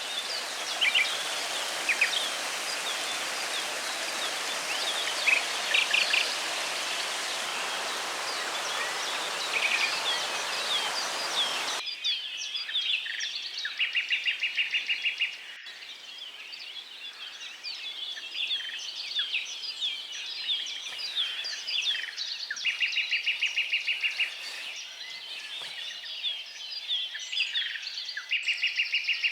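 Several birds singing and chirping, one repeating a fast trill about a second and a half long three times in the second half. For the first twelve seconds a steady hiss lies under the birdsong, then cuts off suddenly.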